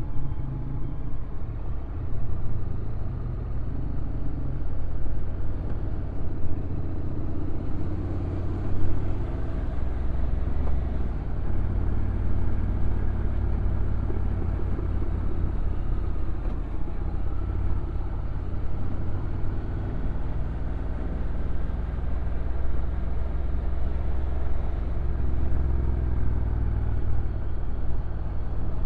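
Stock Honda NC750X DCT's parallel-twin engine running on a downhill ride, with wind and road noise on the microphone. The low engine note shifts in pitch several times as the revs change.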